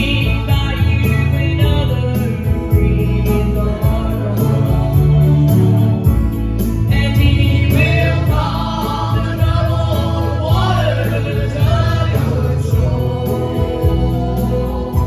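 Southern gospel group singing in harmony over instrumental accompaniment: a church gospel song, continuing without a break.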